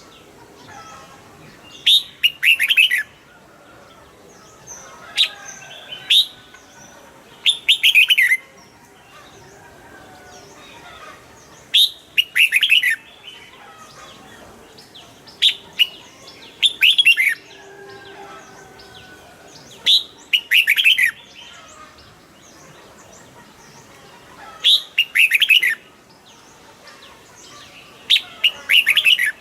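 Red-whiskered bulbul singing: short, loud phrases of quick falling whistled notes, repeated every few seconds, with fainter bird calls in between.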